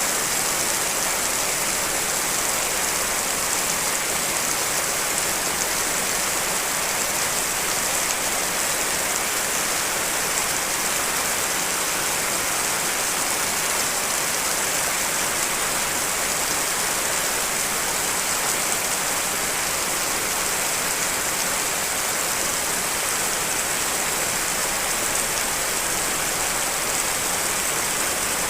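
Steady rain: layered rain recordings blending into a dense, even hiss, brightest in the high range, with no break or change.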